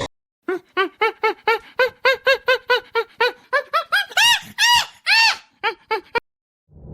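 A puppy making a rapid series of short, high squeaky yips, about four a second, then three longer, higher yelps that rise and fall in pitch.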